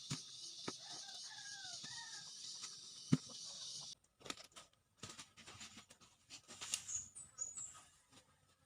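Faint bird calls, short downward-sliding chirps, over a steady high hiss that cuts off abruptly about four seconds in, with scattered clicks and taps.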